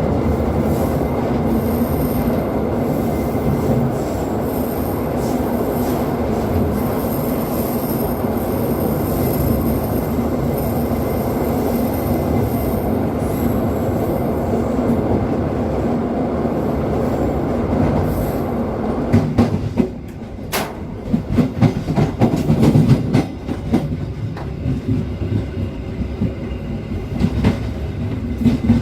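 Passenger train running on the rails: a steady rumble with a thin, high wheel squeal through the first half. In the last third, irregular clanks and clicks come as the wheels pass over rail joints.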